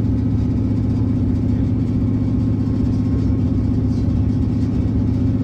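Diesel train running at speed, heard from inside the carriage: a steady engine drone with the rumble of the wheels on the track.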